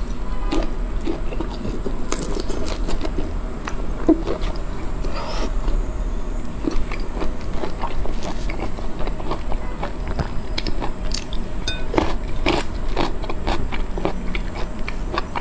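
Close-miked eating sounds of a person biting and chewing shrimp: irregular wet smacks and small crackly clicks, with no pause.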